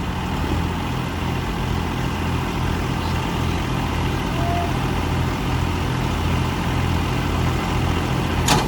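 Tractor engine idling steadily with an even low pulse, and a sharp click near the end.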